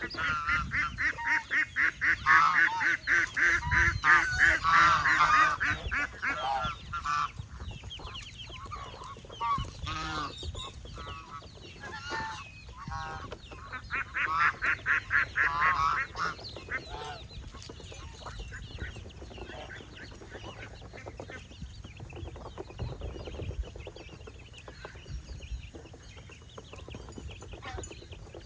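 Domestic geese and other farmyard poultry calling: a loud, fast run of repeated calls, about four a second, for the first several seconds and again around the middle, with quieter scattered calls in between and after.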